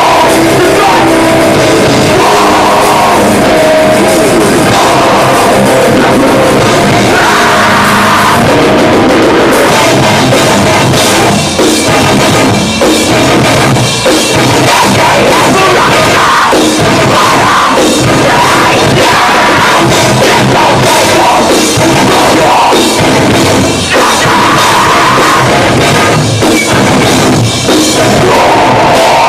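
Metalcore band playing live: heavily distorted guitars and a pounding drum kit, loud and compressed as heard from the audience. From about 11 seconds in the playing turns into choppy, stop-start hits.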